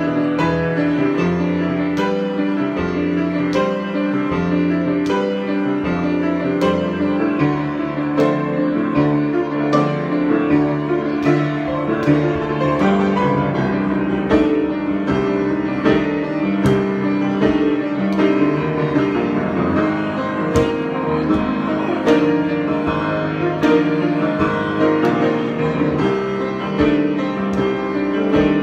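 Solo piano improvisation, notes and chords struck steadily with sustained ringing tones.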